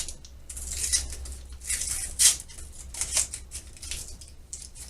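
Crinkling and rustling of a haw flakes wrapper being opened by hand: a string of short crackles, with one sharper crack just after two seconds in.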